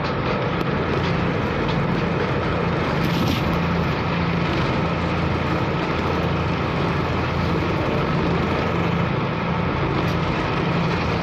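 Engine of the KMP Sumut 2 car ferry running steadily under way, a low drone under a constant rush of wind and waves.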